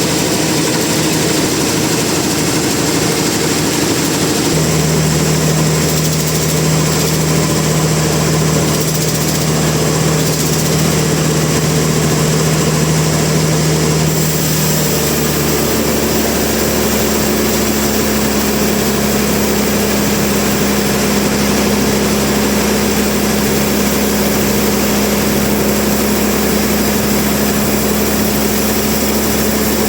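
Sawmill machinery running with a steady engine-like drone under a hissing wash of noise. The drone jumps abruptly to a new pitch about four seconds in and again about fifteen seconds in.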